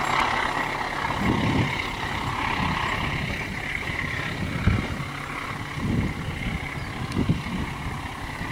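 A freight train of tank wagons rolling away round a curve, its wheel and rail noise fading over the first few seconds. Gusts of wind buffet the microphone with low thumps several times.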